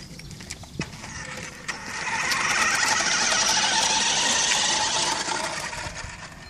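Remote-controlled toy monster truck's electric motor and gears running as it drives, starting about two seconds in and fading out near the end.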